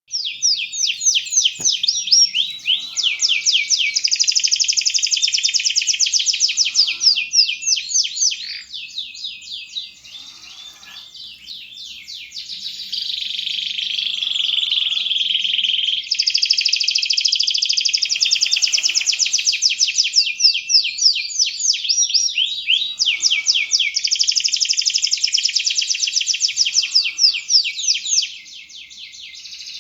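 Domestic canary singing full song: long runs of rapid, high trills and rolling phrases that go on almost without a break, dropping to a softer passage about ten seconds in and easing off near the end.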